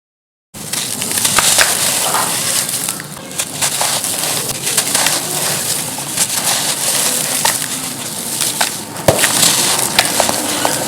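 Charcoal being crushed and crumbled: a dense, steady crackle of many small snaps and crunches, starting abruptly after about half a second of silence.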